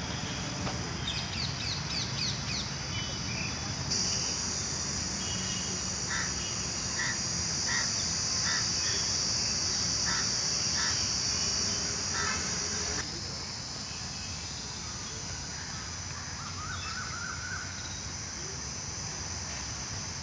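Birds calling, with a few quick chirps early on and a series of short repeated calls in the middle. Underneath runs a steady high-pitched hiss that grows louder about four seconds in and drops back after about thirteen seconds.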